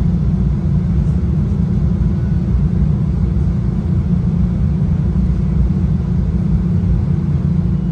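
Steady low rolling noise of a Metra bilevel commuter train car moving along the track, heard from inside the passenger cabin.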